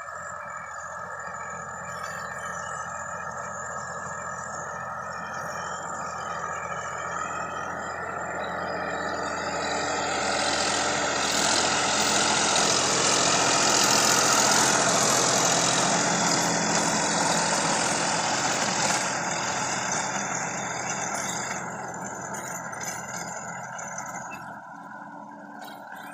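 Sonalika DI 50 RX tractor's diesel engine running steadily. It grows much louder for several seconds through the middle, under load or passing close, then eases back.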